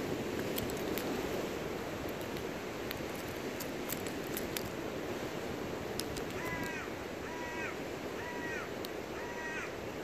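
Steady hiss of surf and wind with scattered sharp clicks. A bird calls four times in short, slightly falling calls, starting a little past halfway.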